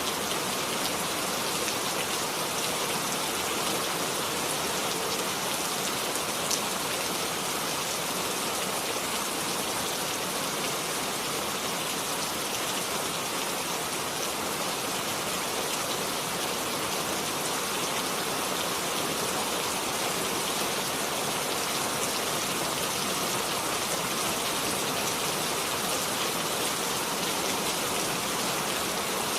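Steady, even rain, with drops pattering on a surface, and one brief louder drop or tick about six seconds in.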